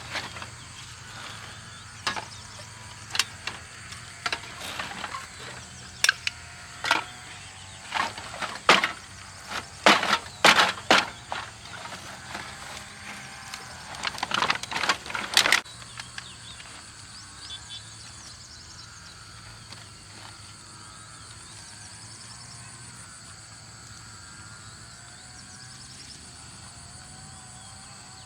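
Sharp, irregular knocks and cracks, some in quick clusters, from scrap being handled. They stop after about sixteen seconds, leaving only a steady outdoor background.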